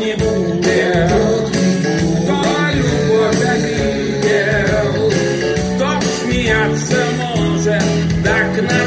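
Band music with singing: a pop song played by a vocal-instrumental ensemble, running on steadily.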